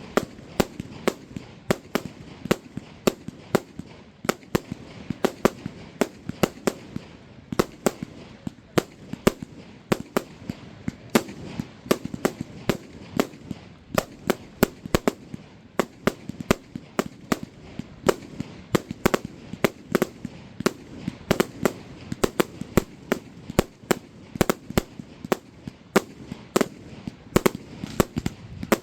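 Fireworks display: a rapid, irregular barrage of sharp bangs and crackles, several a second without let-up.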